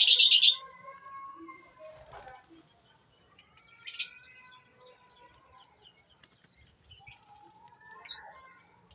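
Lovebirds calling in a colony aviary: a loud, shrill squawk right at the start and another about four seconds in, with quieter chirping between.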